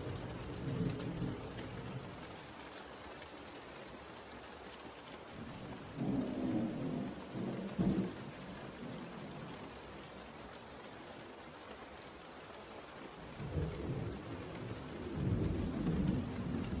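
Steady rain with rolling thunder: a low rumble right at the start, another about six seconds in that ends in a sharp crack, and a longer rumble building near the end.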